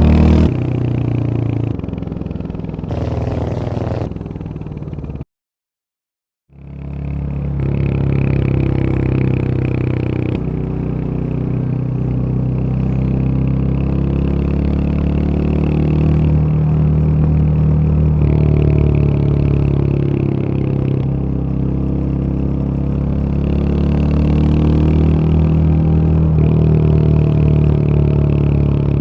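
Royal Enfield Hunter 350's 349 cc single-cylinder engine running under way, its pitch climbing and dropping as it goes through the gears. A few short clips come first, then a full silence of about a second at around five seconds in.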